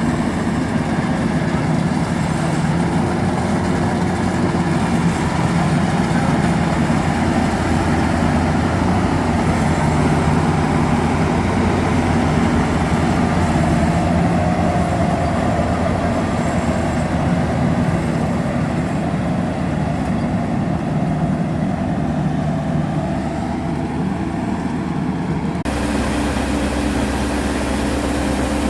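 Rice harvesting machine running steadily, a loud, low mechanical drone. The sound changes abruptly a few seconds before the end.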